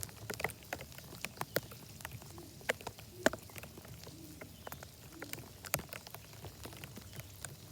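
Raindrops tapping on a plastic Ziploc bag wrapped over the recording iPad: sharp ticks at uneven intervals, one louder tap about three seconds in.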